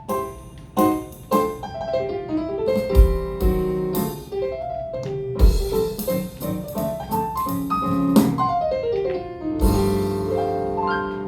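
A piano solo of quick runs and chords, with some descending runs and a strong held chord near the end.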